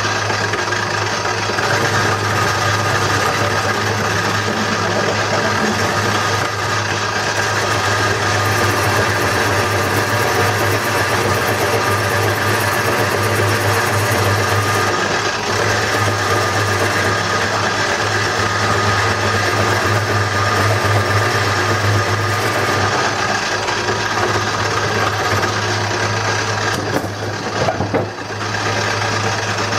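Wood lathe running with a steady motor hum while a hand-held turning tool scrapes and cuts into the spinning bowl blank. The sound dips briefly near the end.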